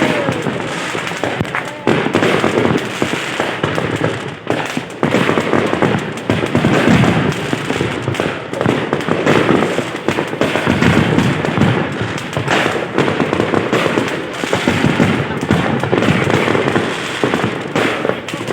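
A large fireworks display going off continuously, with many shells bursting and crackling in quick, overlapping succession and no pause.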